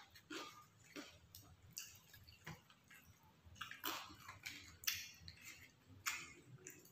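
Close-up eating sounds: chewing grilled chicken satay, with irregular soft wet clicks and smacks about two a second, and light handling of the bamboo skewers on the metal tray.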